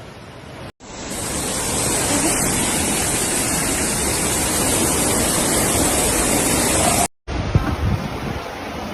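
Loud, steady rush of water with no pitch in it, cutting in about a second in and cutting off abruptly near the end. After it comes gusty wind-like noise on the microphone with low thumps.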